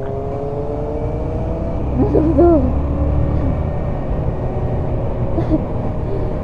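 Small single-cylinder motorcycle engine running under way, its pitch slowly climbing as it accelerates, over a low rumble of wind on the microphone. A brief wavering tone cuts in about two seconds in.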